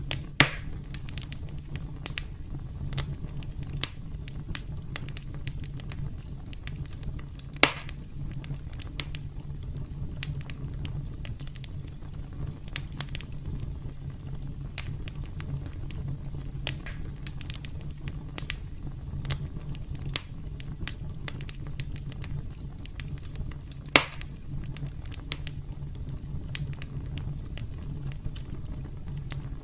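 Wood fire crackling, with a steady low rumble and a scatter of small snaps, and three louder pops: one right at the start, one about a third of the way in, one about two-thirds in.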